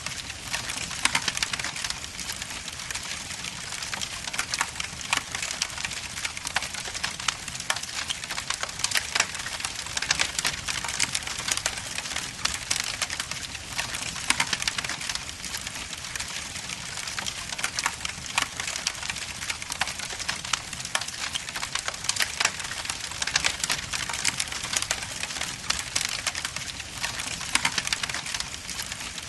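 Log fire burning in a fireplace, crackling with many sharp pops and snaps over a steady low hiss.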